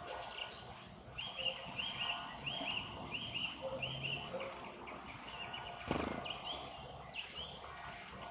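Common starling calling: a run of about six identical short rising-and-falling whistled notes, roughly one every two-thirds of a second, then a sharp click about six seconds in and a few more notes.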